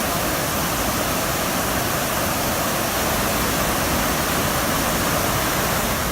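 Rain-swollen stream rushing steadily after a heavy rainstorm, a loud, even noise of fast-flowing storm runoff.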